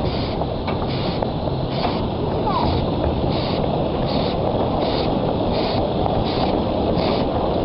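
Small steam locomotive working a train, its exhaust beats coming as evenly spaced hissing chuffs about once every three-quarters of a second over a steady running rumble.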